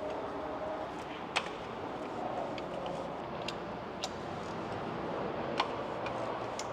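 Scattered sharp metallic clicks from a ratchet with a 14 mm spark-plug socket, used to loosen the spark plugs of a BMW S55 engine. About five louder clicks come at irregular intervals of roughly half a second to two seconds, with fainter ticks between them.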